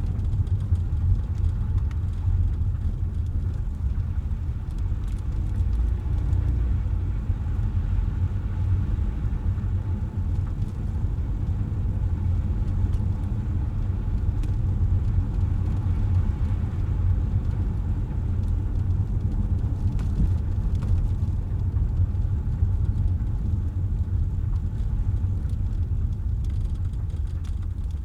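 Steady low rumble of a car being driven on wet, slushy city streets: tyre and road noise with engine hum, easing off slightly near the end.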